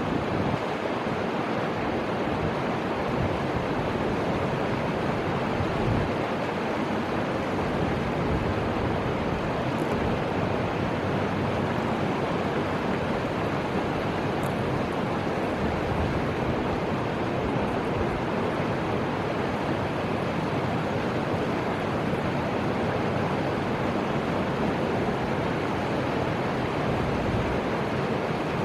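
Steady rushing of flowing river water, with wind over it.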